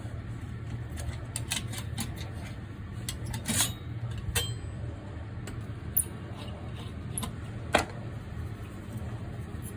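Scattered sharp metallic clicks and taps as parts of a Coleman 508A gasoline camp stove are handled during disassembly, over a steady low hum.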